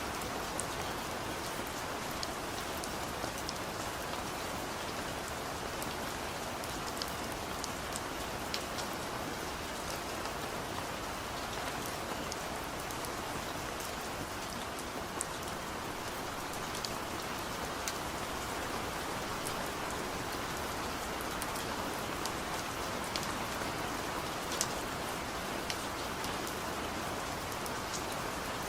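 Steady rain falling, with the sharp ticks of single drops hitting a surface scattered through it.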